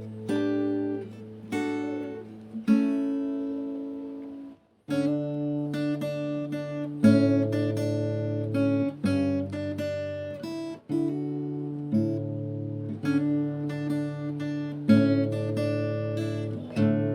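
Background music: an acoustic guitar playing a run of chords, with a short break about four and a half seconds in.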